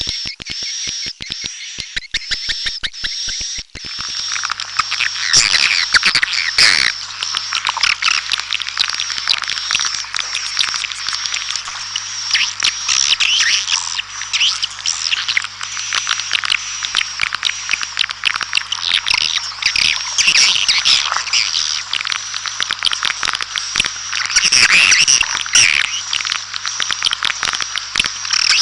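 Swiftlets calling: about four seconds of rapid, regular clicks over a steady high tone, then a dense, continuous chatter of many high chirps and twitters, with a low steady hum underneath.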